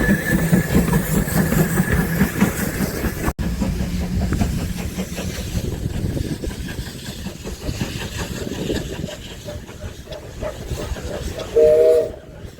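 Steam-hauled train running on the line: a steady rumble with clickety-clack from the wheels that fades away. Near the end comes one short blast of a steam whistle.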